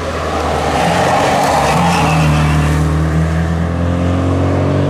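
Classic Mini rally car's four-cylinder engine pulling hard out of a hairpin, its note holding steady and then rising as the car accelerates away.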